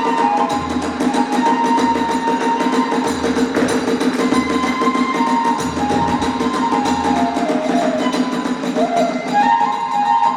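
Kagura hayashi music: a flute melody over a low drum beat about once a second and a dense run of percussive clicks.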